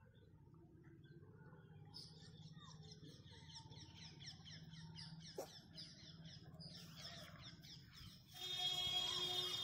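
Small birds chirping in a rapid run of short, high, falling notes, about six a second. Near the end a louder, steady sound made of several held tones comes in.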